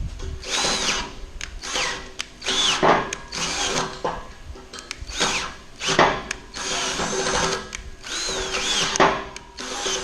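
Electric drill boring a bolt hole through a steel frame beam with an oiled bit. The motor runs steadily while the bit grinds into the metal in repeated surges, several with short, high squeals.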